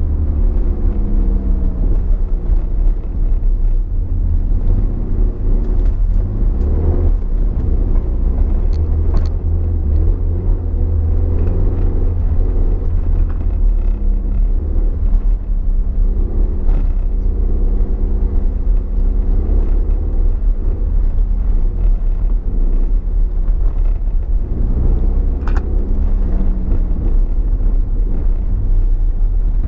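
Toyota MR2's mid-mounted four-cylinder engine heard from inside the cabin, revving up and falling back again and again as the car is driven hard through a lap. A heavy low rumble of road and tyre noise runs under it, with a few short clicks.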